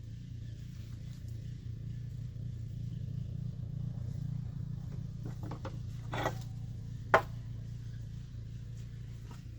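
Low steady rumble that swells in the middle and eases off again. It is joined by a few light knocks from hand tools and parts about six seconds in and one sharp click a second later, while seals are fitted into the supercharger's bearing plate.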